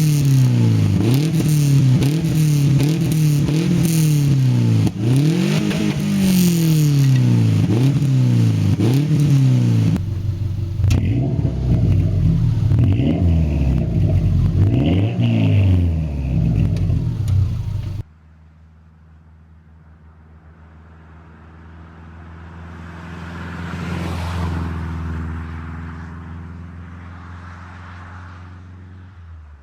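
Subaru Legacy exhaust as the engine is revved repeatedly, the pitch climbing and dropping about once every second and a half. The sound changes abruptly twice. The last third is a much quieter steady engine drone that swells and fades.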